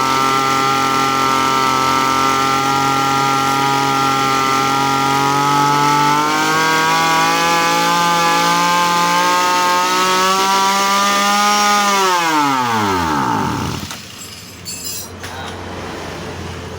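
Small grass-cutter engine running steadily, its pitch stepping up slightly about six seconds in; about twelve seconds in it cuts out and winds down, the pitch falling away over a second or two. This is the fault being shown: the engine dies on its own when warm.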